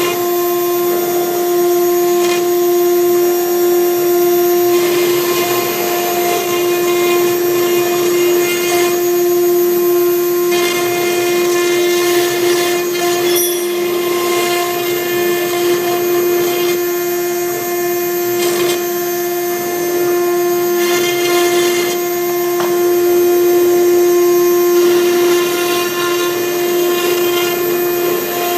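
CNC router spindle running at a steady high-pitched whine while a V-bit engraves MDF. A rougher cutting noise comes and goes every few seconds as the bit moves through the board.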